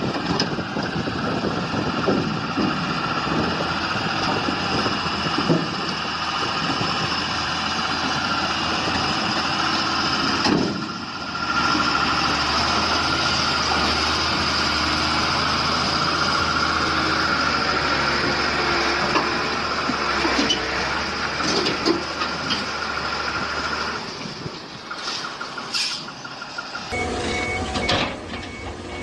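Heavy vehicle or machine engines running steadily, the sound changing abruptly a few times. Near the end a reversing alarm beeps in an even, repeating rhythm.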